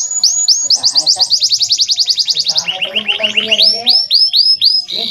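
Male domestic canary singing: a fast trill of rapidly repeated descending notes, switching about two and a half seconds in to a lower, quicker trill, then a run of slower rising-and-falling whistled notes near the end.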